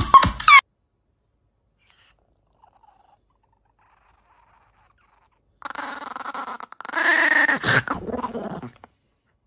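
Several seconds of near silence, then about three seconds of an animal's drawn-out vocal sound, steady in pitch at first and falling away near the end.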